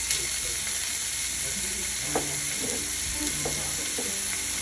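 Stir-fry sizzling steadily in a hot pan while it is stirred, with a few sharp clicks of the utensil against the pan.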